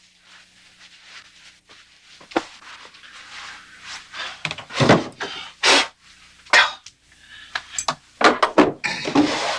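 Rustling and rubbing handling sounds in a small room, in several short bursts, with a sharp knock early on.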